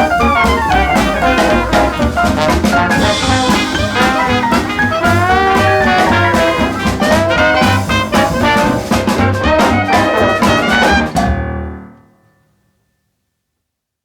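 Up-tempo instrumental swing jazz: a brass section of trumpets and trombones over a driving drum kit. The band ends on a final chord that dies away about twelve seconds in, leaving silence.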